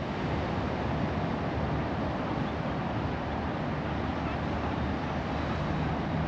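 Steady rushing noise of ocean surf and wind, even throughout with no distinct events.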